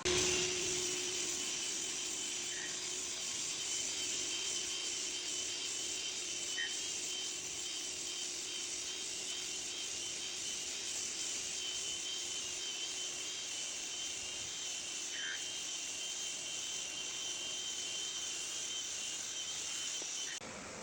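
Parquet floor sanding machine with dust extraction running steadily: a rushing noise with a high, steady whine.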